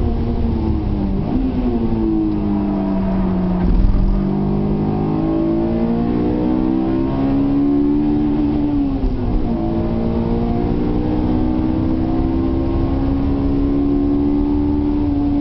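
Honda S2000's inline-four engine heard from inside the cabin under hard driving. Its pitch sags over the first few seconds, with a short loud blip about four seconds in. It then climbs steadily, dips briefly about nine seconds in, and climbs again before falling near the end, over steady road and wind noise.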